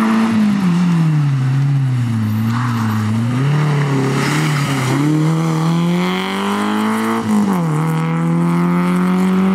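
Rally car engine at high revs: the revs drop as the driver lifts for a bend, then climb again under acceleration, with a quick dip at a gear change near the end before holding a steady high note.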